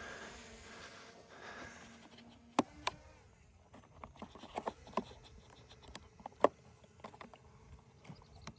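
Scattered sharp clicks and knocks at an irregular pace, two louder ones about two and a half seconds in and another near six and a half seconds, after a faint steady hum that fades out over the first couple of seconds.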